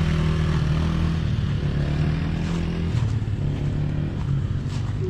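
Small single-cylinder four-stroke engine of a youth off-road bike running at low to moderate revs, its note dropping about halfway through.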